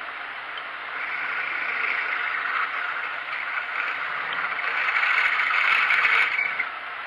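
A 6 mm twist drill cutting a through hole in a steel T-nut blank on a milling machine. It makes a scraping hiss that builds over about five seconds and stops abruptly near the end, over the steady hiss of the running machine.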